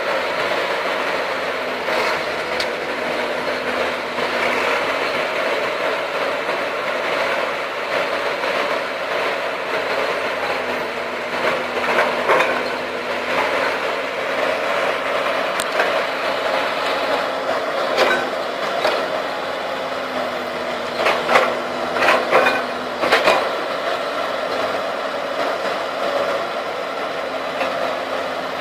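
Heavy diesel engines of a Komatsu PC200 excavator and a CAT D6D crawler bulldozer running steadily during a pull to free the bulldozer from mud. Sharp metal clanks and knocks come now and then, bunched together in the second half.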